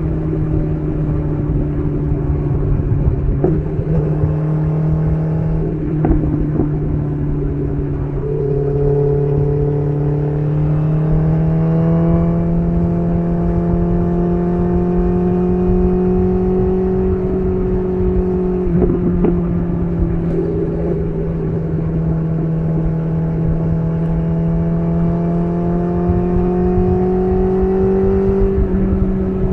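BMW S1000RR inline-four engine running steadily through an SC Project CR-T titanium exhaust. The engine note dips about eight seconds in, then climbs slowly and holds, with a few brief clicks along the way.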